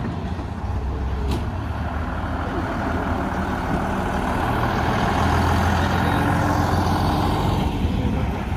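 A vintage bus's engine running close by, a deep rumble that builds to its loudest around the middle and eases off near the end, as the bus moves past or manoeuvres.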